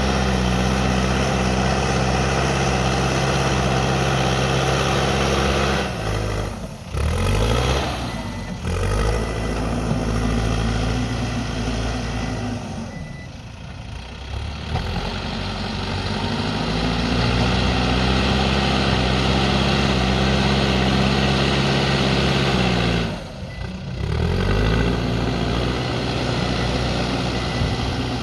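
Backhoe loader's diesel engine running hard under load. Its revs drop and pick up again several times: briefly about six, eight and twenty-three seconds in, with a longer lull around thirteen to fifteen seconds.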